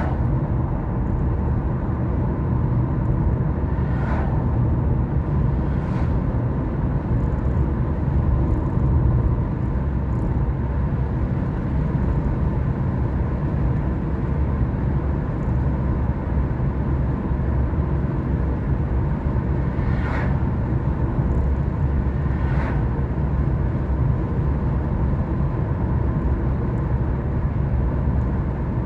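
Car driving at a steady speed: a steady low rumble of engine and tyre and road noise, with a few faint clicks.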